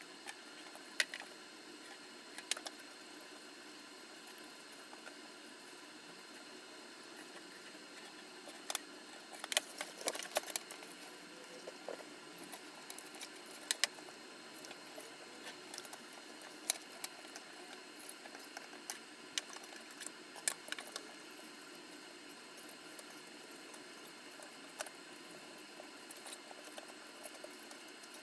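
Small metal parts being handled: scattered light clicks and clinks, busiest about ten seconds in, over a steady hiss.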